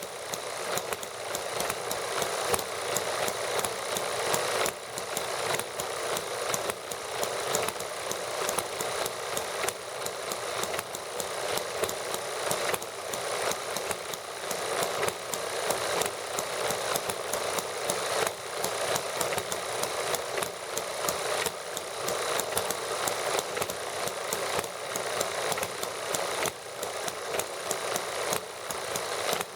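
Several small model gasoline engines running together: a steady, rapid clatter of firing strokes that goes on without a break.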